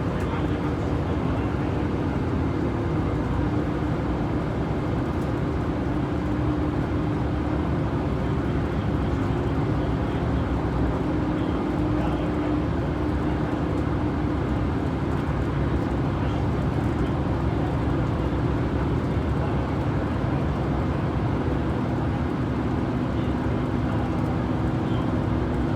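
Bus riding along at steady speed, heard from inside the passenger cabin: a steady low engine hum over even road noise.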